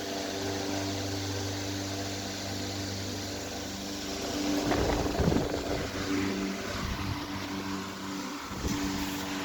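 Antique Century S3-16 16-inch electric fan running and oscillating, its motor humming steadily under the rush of air from the blades. About halfway through there is a louder noisy stretch, and near the end a brief knock.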